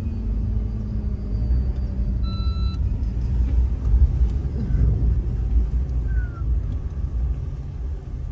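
Low rumble of a car's engine and running gear as it is pulled up a muddy, slippery road, with a short beep about two seconds in.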